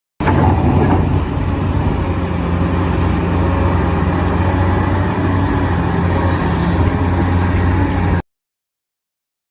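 Steady heavy engine sound, like a diesel truck engine running at an even speed, with a thin high whine above it. It cuts in abruptly and stops sharply after about eight seconds.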